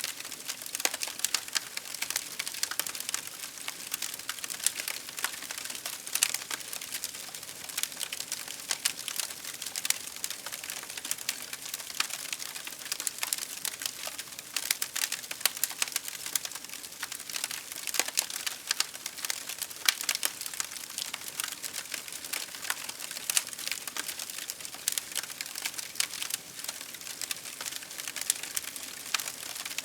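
Wood fire crackling: dense, irregular sharp pops and snaps over a steady hiss of burning.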